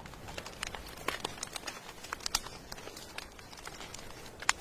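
Wood fire crackling, with irregular sharp pops over a steady hiss of rain; the loudest pop comes near the end.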